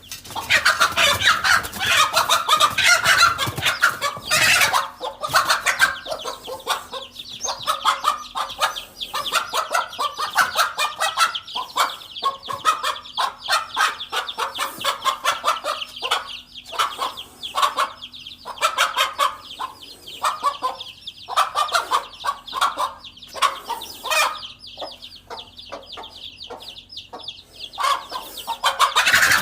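Hen clucking and squawking in rapid, repeated calls, loudest and densest in the first five seconds, then in shorter bursts with brief gaps. These are alarm calls of a mother hen facing a snake near her chicks.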